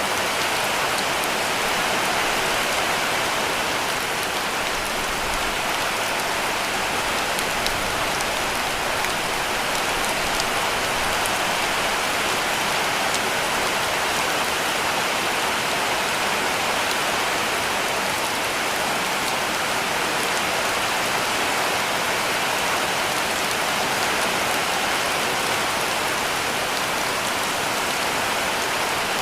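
Heavy rain falling steadily on a cabin roof: a dense, even hiss with faint scattered drop ticks.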